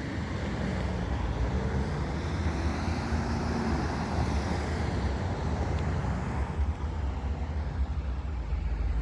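Road traffic with a low, unsteady rumble of wind on the microphone. A vehicle's engine hum rises in pitch in the first few seconds.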